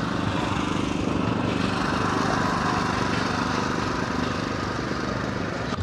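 An engine running steadily at an even speed, with a fast, regular firing pulse.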